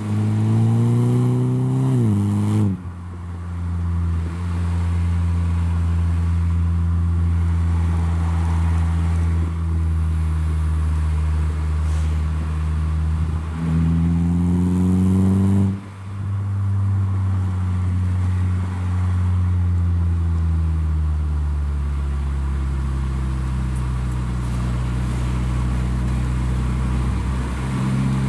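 Saab 9-3 with a hand-made stainless steel full exhaust under way. The exhaust note rises under acceleration and drops sharply at a gear change about two and a half seconds in, then holds steady. It climbs again to another drop around the middle, then slowly falls and begins rising again near the end.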